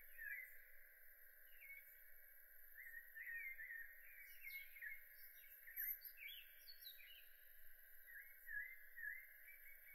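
Faint birdsong: many short chirping calls from several birds, scattered throughout, over a steady high-pitched hiss.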